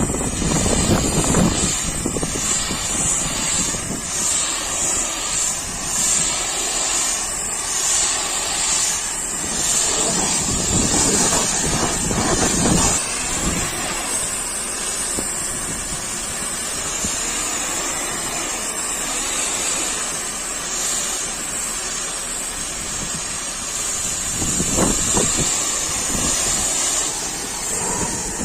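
High-pressure washer spraying water, a steady loud hiss with a lower rumble underneath that swells briefly a few times.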